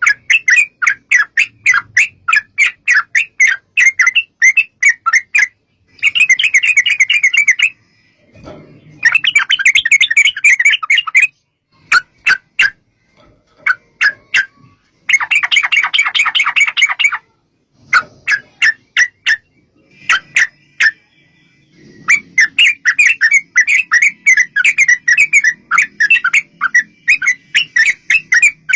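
Yellow-vented bulbul (trucukan) calling: strings of short, bright notes, some spaced out and others run together into long rapid-fire chatters lasting a few seconds each, with short pauses between runs.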